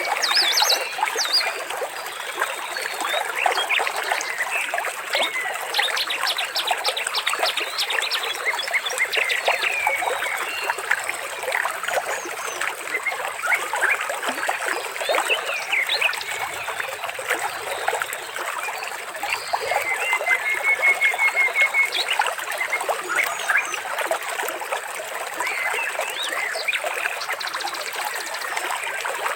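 Water trickling steadily under a dense chorus of birds chirping and trilling. A quick run of repeated notes comes about two-thirds of the way through.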